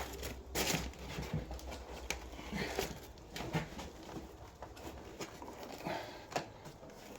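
Scattered rustles, crinkles and light taps of self-adhesive sound-deadening sheet being handled, peeled and pressed into place, over a low steady hum.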